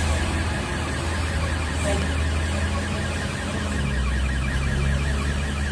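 Motor vehicle driving: a steady low engine and road rumble, with a fast, evenly repeating higher warble running over it.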